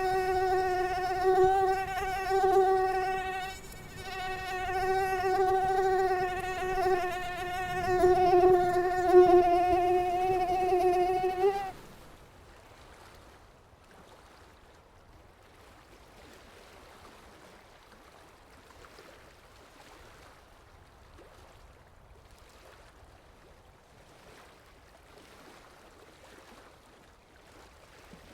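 Mosquito wing whine: a steady hum with many overtones, dipping briefly about four seconds in and cutting off about twelve seconds in, after which only faint background noise remains.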